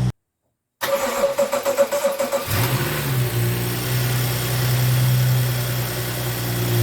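BMW N55 3.0-litre turbocharged inline-six cranking on the starter for under two seconds, then catching and settling into a steady fast idle: the first start after a spark plug change.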